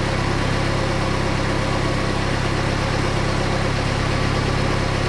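Saab 90 four-cylinder engine, fed by a freshly rebuilt Stromberg carburettor, idling steadily at about 1,000 rpm at full running temperature.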